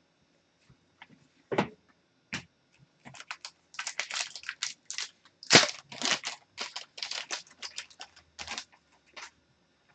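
Trading cards and packs being handled: a few separate clicks, then from about three seconds in a dense run of quick, sharp clicks and rustles as cards are flipped and shuffled.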